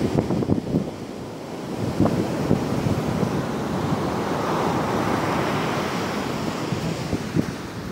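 Sea surf breaking and washing up the beach, one wave swelling to a rush about halfway through, with strong wind buffeting the microphone in low rumbling gusts.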